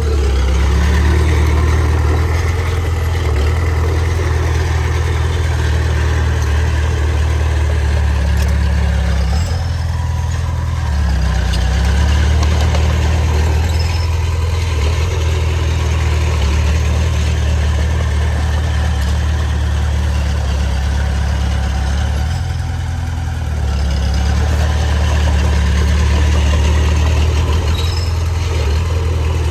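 Heavy diesel engine of earthmoving machinery running steadily, with a low drone. The drone dips and changes pitch about ten seconds in, and again about twenty-two seconds in, as the load changes.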